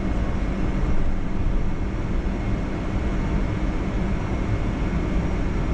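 Steady cabin noise inside a Boeing 757-200 on the ground after landing: an even low rumble with a faint steady whine.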